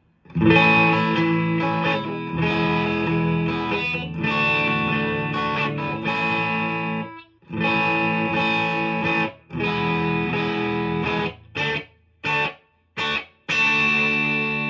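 PRS SE McCarty 594 Singlecut electric guitar on the middle pickup position, played through a Marshall DSL-1's classic gain channel into a 2x12 cab: overdriven chords held for a second or two each, then three short stabbed chords, and a last chord left ringing.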